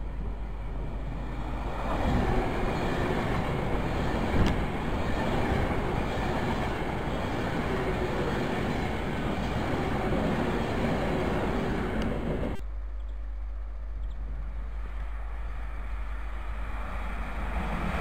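Class 390 Pendolino electric train passing at speed, a steady rush of wheels on rail and air that swells about two seconds in, with one sharp click. The sound cuts off suddenly about two-thirds through, and another electric train starts to be heard approaching near the end.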